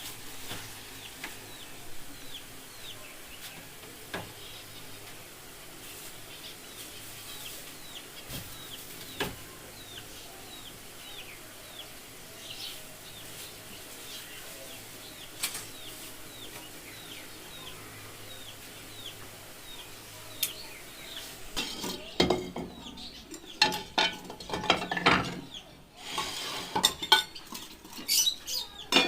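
Dishes and metal utensils clinking and clattering, with a few scattered clinks at first, then a busy run of loud clattering over the last several seconds. Small birds chirp repeatedly in the background.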